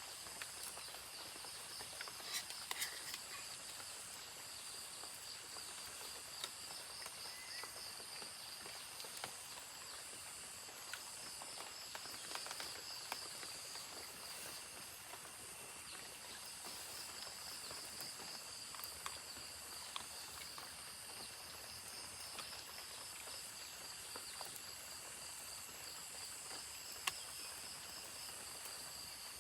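A forest insect chorus chirring steadily in several high pitches, one of them pulsing and wavering, with scattered small clicks and knocks.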